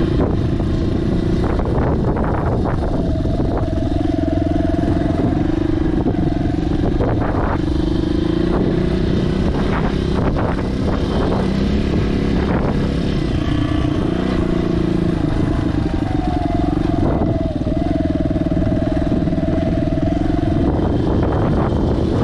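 2020 Suzuki DR200S's 199 cc air-cooled single-cylinder four-stroke engine running while the bike is ridden, its pitch holding fairly steady with small shifts, as with throttle or gear changes.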